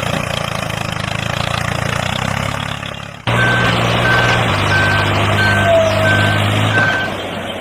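Vehicle engine running with a steady hum that changes abruptly about three seconds in. From then on a reversing alarm beeps six times at an even pace over the engine.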